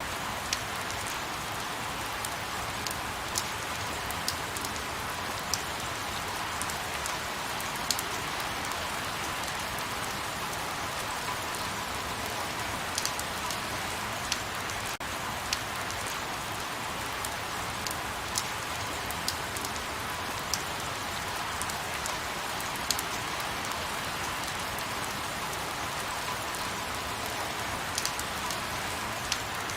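Light rain falling steadily: an even hiss of rain with scattered sharper drop ticks at irregular moments.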